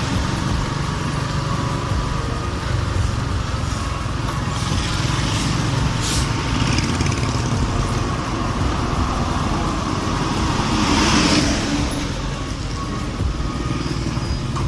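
Wind noise on a helmet-mounted earphone mic while riding a Honda RS125FI motorcycle, its small single-cylinder engine running underneath as a steady low rumble. A louder swell comes about three-quarters of the way through.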